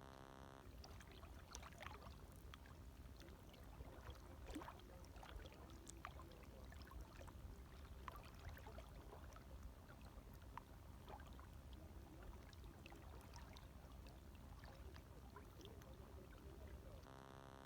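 Faint small waves lapping, with many little splashes and drips coming irregularly, over a low steady hum.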